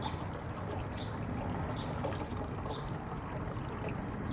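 Steady trickle of running water from a parrot's bath. A bird's short falling chirp repeats about once a second.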